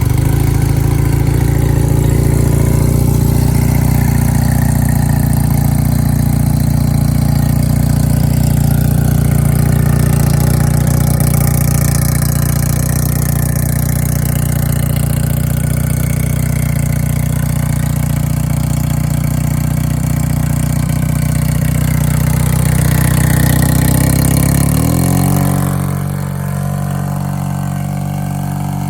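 1978 Honda Hawk's parallel-twin engine idling on a cold start, running at a fast, steady idle. Near the end the idle drops to a lower, quieter speed and holds there.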